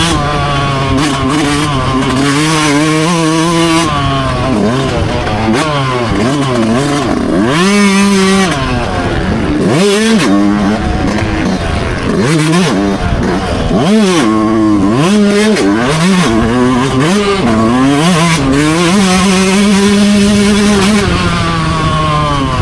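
Dirt bike engine being ridden hard, its pitch repeatedly climbing under throttle and dropping off with shifts and braking, with several short, sharp rev swings in the middle and a longer steady pull near the end.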